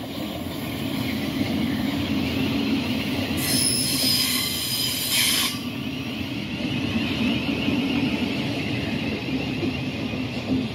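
Thameslink Class 700 electric train rolling along the platform on a curve, the rumble of its wheels on the rails growing louder as it comes close. About three and a half seconds in, its wheels squeal on the curve for about two seconds, a high ringing squeal that cuts off sharply.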